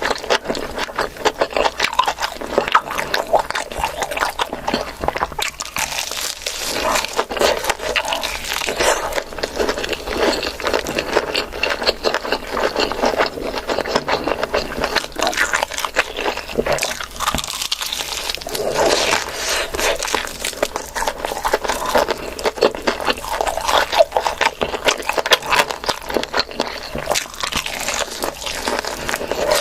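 Close-miked eating: continuous chewing and crunching of food, with scraping sounds.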